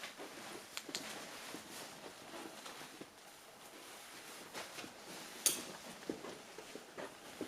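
Faint scattered clicks and knocks of people moving about a small room, with one sharper click about five and a half seconds in.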